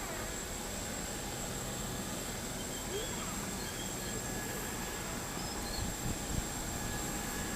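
Steady hiss of a parked Boeing 737-800's cabin air conditioning, with a faint constant high whine over it.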